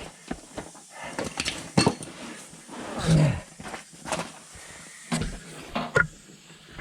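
Metal repair pieces being handled and test-fitted into a van's cross member: a series of irregular knocks and clinks, with a short low falling tone about three seconds in.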